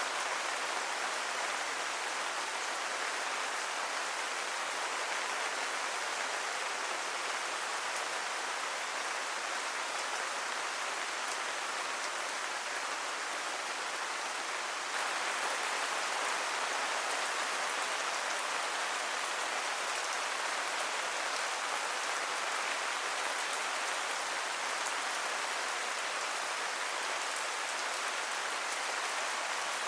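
Steady rain falling and pattering on surfaces, an even hiss with no other sounds; it steps up slightly in level about halfway through.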